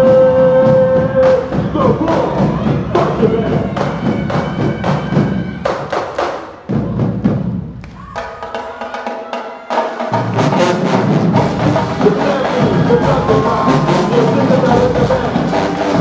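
University marching band playing: a held brass note gives way to sharp drumline hits. Midway the band thins to a quieter sustained horn chord, then the full brass and percussion come back in about ten seconds in.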